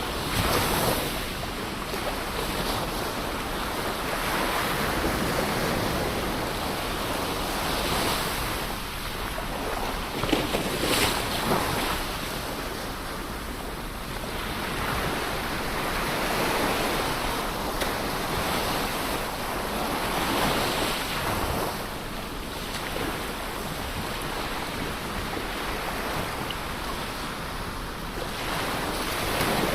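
Ocean waves breaking and washing on the shore, a continuous surf wash that swells every few seconds, with a sharper crash about eleven seconds in. Wind on the microphone adds a low rumble.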